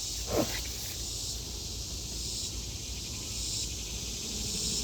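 Honey bees of a newly hived swarm buzzing around their hive, a steady low hum, with a high insect trill over it.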